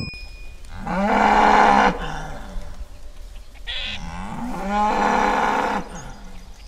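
A cow mooing twice, two long calls a few seconds apart.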